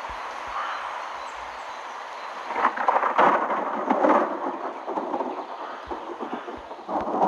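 Thunder rumbling in a thunderstorm: a steady hiss that swells into a louder, uneven rumble about two and a half seconds in, then dies back, with a smaller swell near the end.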